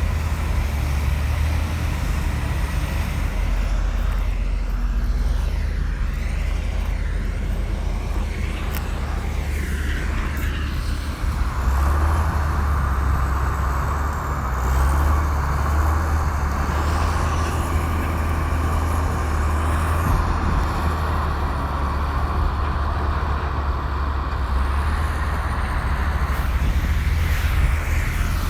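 Komatsu crawler bulldozer's diesel engine running steadily while working. A louder, harsher mid-pitched noise comes in about twelve seconds in and drops away a couple of seconds before the end.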